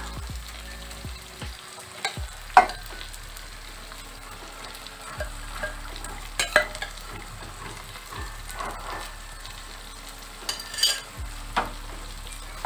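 Chicken pieces in a green coriander-yogurt marinade sizzling in hot oil with fried onions in a non-stick wok: a steady sizzle broken by a few sharp pops, the loudest about two and a half seconds in. This is the start of frying the marinated chicken down.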